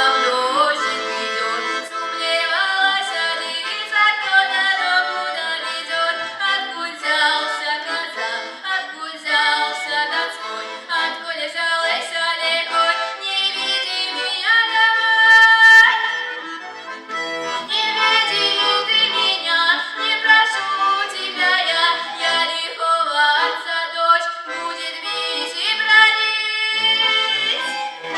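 Accordion playing a lively folk tune, with a long held chord about halfway through.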